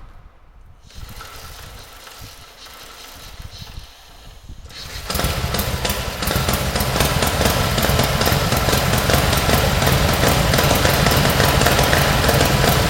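1931 Matchless X/3's 982 cc 50-degree V-twin engine starting: quieter mechanical sounds for the first few seconds, then about five seconds in the engine fires and keeps running steadily with a rapid pulsing beat.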